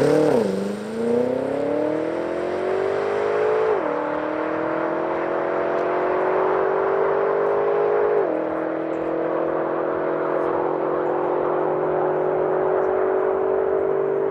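BMW M6 Competition's twin-turbo V8 accelerating hard from a standing start, the engine note climbing steadily in pitch. It upshifts twice, about four and eight seconds in, each shift a sudden drop in pitch before the climb resumes.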